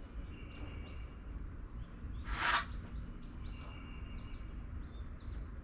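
Outdoor ambience of small birds chirping over and over in quick, short downward notes, over a steady low rumble. About two and a half seconds in comes one brief, loud rasping burst.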